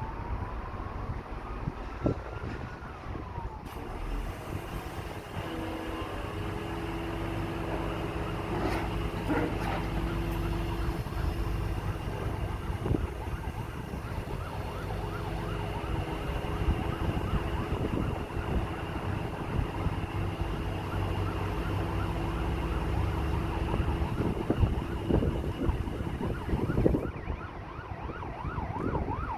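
Truck engine running steadily at raised revs, with a few knocks. A fast warbling, siren-like tone joins in the second half.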